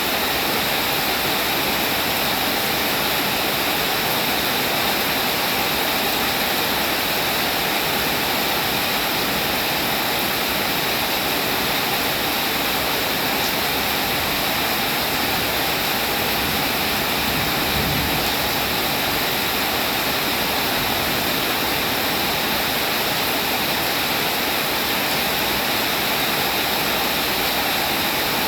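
Steady rain falling, an even, unbroken hiss of water, with a brief low rumble about two-thirds of the way through.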